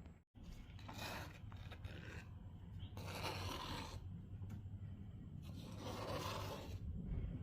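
Epoxy resin being spread and scraped across a countertop, in three long scraping strokes about two seconds apart.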